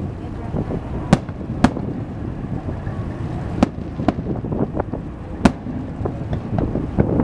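Aerial fireworks bursting: sharp bangs at irregular intervals, about four loud ones and many smaller crackles, over a steady low background rumble.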